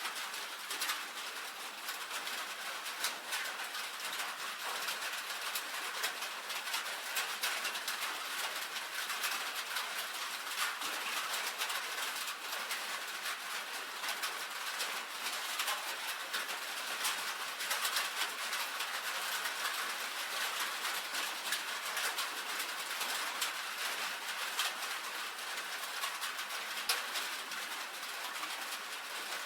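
Rain falling steadily on a tin roof: a dense patter of countless small drop ticks over an even hiss.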